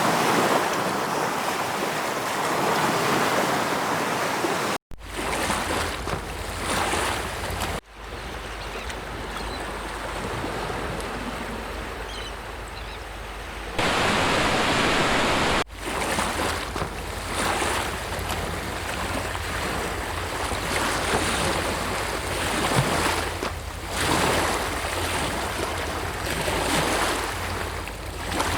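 Sea waves surging and washing on the shore, a continuous rushing wash of surf. It cuts abruptly to a different stretch of surf about five, eight and sixteen seconds in.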